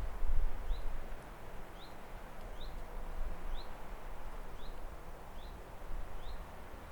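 A bird repeating a short rising chirp, a little more than once a second, over a steady background hiss with a low rumble that is strongest near the start.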